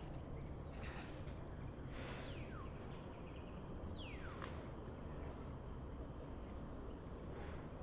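Faint forest ambience: a steady high insect drone, like crickets, with two brief whistles falling quickly in pitch about two and four seconds in.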